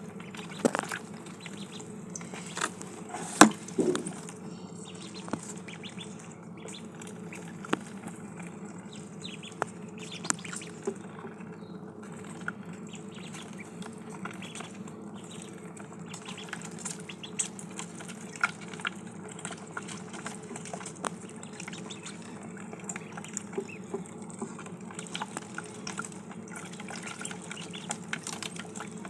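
Ducklings dabbling and pecking at water and feed, making irregular sharp clicks and small splashes, the loudest about three and a half seconds in. A steady low hum runs underneath.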